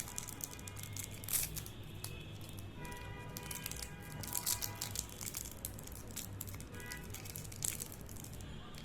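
Plastic candy wrappers crinkling and tearing as they are opened, in irregular rustles with the loudest about a second in and a cluster in the middle, over background music.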